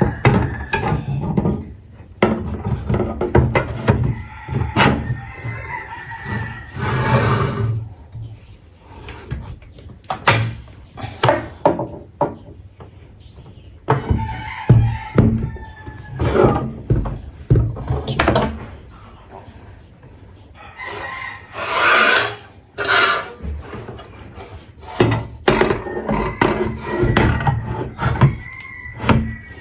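Irregular knocks and short rubbing scrapes of wood being handled and worked by hand, with a rooster crowing several times in the background.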